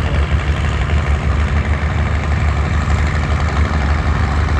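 Heavy engine of a vintage tractor running at a steady idle, with a rapid low throb.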